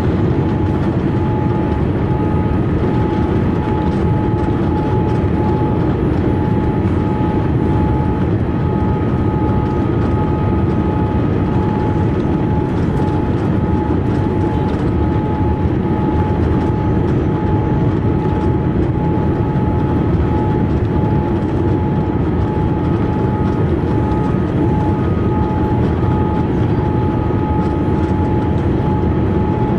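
Steady cabin noise inside a Boeing 787-8 on its approach: a deep rumble of engines and airflow, with a thin high hum running over it.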